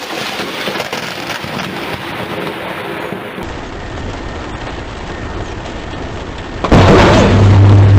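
Thunder rumbling over steady heavy rain, then a sudden, much louder blast of close thunder about seven seconds in.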